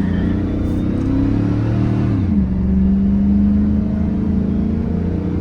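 2006 GMC Sierra 1500's 5.3-litre V8, fitted with a slightly louder exhaust, pulling under acceleration with its pitch rising. About two seconds in the pitch drops sharply as the automatic transmission upshifts, then the engine settles into a steady drone.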